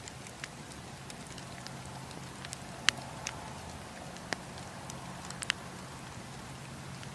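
Wood campfire crackling: scattered sharp pops and snaps of burning wood, the loudest about three seconds in, then near four and a half and five and a half seconds, over a steady low rush.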